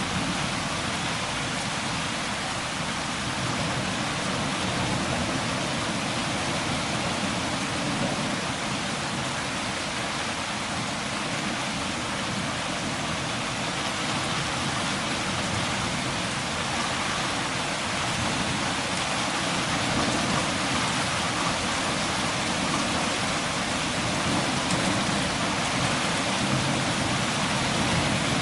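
Steady rain falling on surfaces, an even hiss with no distinct drops or thunder.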